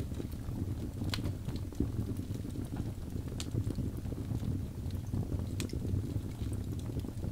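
Wood fire burning in a fireplace: a steady low rumble of flames with scattered sharp crackles and pops from the burning birch logs, the clearest a little after a second in, around three and a half seconds and around five and a half seconds.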